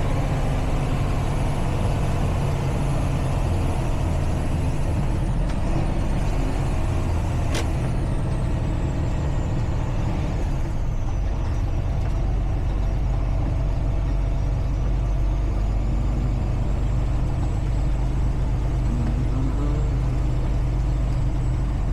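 Semi-truck engine and road noise heard from inside the cab, a steady low drone. A single sharp click about seven and a half seconds in.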